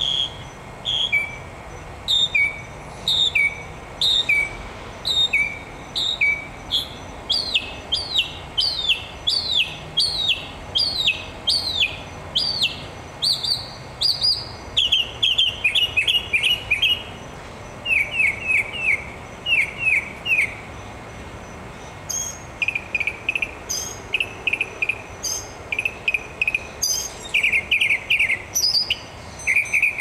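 A songbird singing a long run of clear, down-slurred whistled notes about once a second. About halfway through the song switches to lower, quicker clusters of two or three notes, repeated with short gaps.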